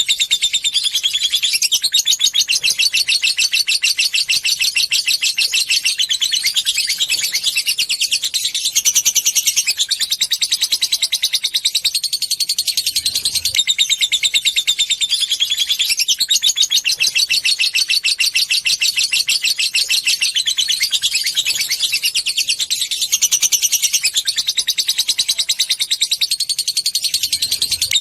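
Lovebird in long chattering song ('ngekek panjang'): an unbroken stream of very rapid, high-pitched ticking notes, sung without pause.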